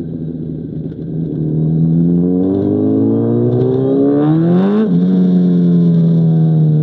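Honda CBR1000RR inline-four sportbike engine through an SC Project CR-T exhaust, pulling up through the revs under acceleration, then dropping in pitch at an upshift about five seconds in and running on.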